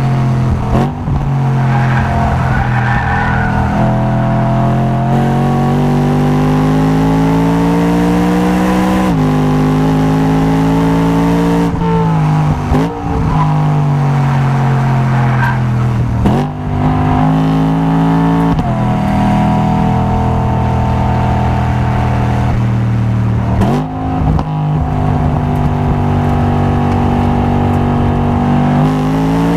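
Performance car engine heard onboard while lapping a race circuit, revving up and down through the gears with several quick breaks in the note at gearchanges and lifts, and some tyre noise.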